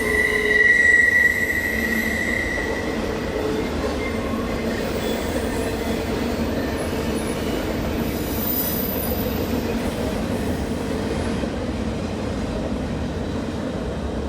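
Train cars rolling past on the rails with a steady rumble, the wheels squealing with a high steady tone that is strongest in the first couple of seconds and then fades into fainter squeals.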